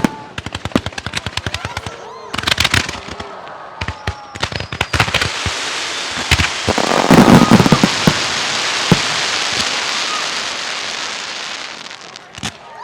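Aerial fireworks: a rapid string of sharp bangs and crackles for the first two seconds, then a long hissing crackle with a heavy boom about seven seconds in that fades near the end, and one last bang.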